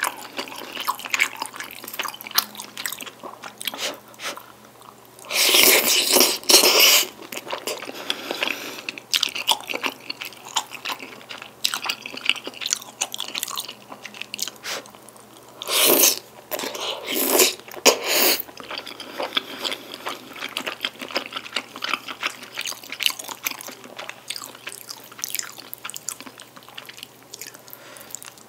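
Close-miked wet chewing of saucy black-bean-sauce tteokbokki and noodles: a steady run of small sticky clicks and squelches. Several louder eating noises come about five to seven seconds in and again around sixteen to eighteen seconds.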